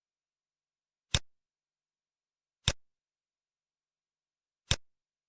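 Three short, sharp mouse clicks, about one and a half to two seconds apart, as options are picked in an on-screen quiz.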